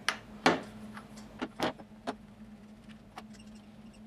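A handful of sharp metal clicks and knocks, the loudest about half a second in, from the combination wrench working on the side cover of a Husqvarna 455 Rancher chainsaw.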